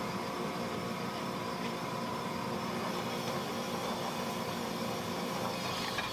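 Home-built power hammer's motor running steadily, a hum with a few even tones over a hiss, the hammer not yet striking.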